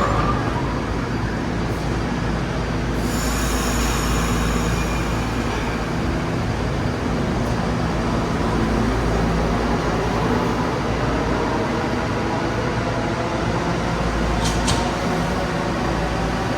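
New York City subway train running on the track: a steady loud rumble, with a high metallic squeal of the wheels about three seconds in and two short sharp clicks near the end.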